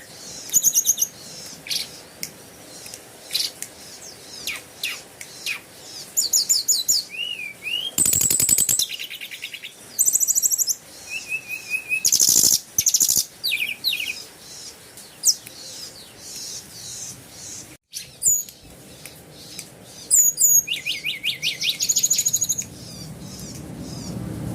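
Small birds chirping and twittering: quick series of high-pitched chirps and trills, several birds overlapping, with a couple of short harsh rattling bursts.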